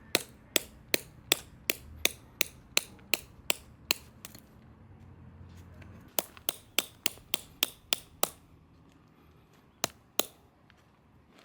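Hammer striking tent pegs to stake out a camping tarp. The blows come in quick even runs of about three a second: a run of about eleven, a pause, a run of about eight, then two last blows.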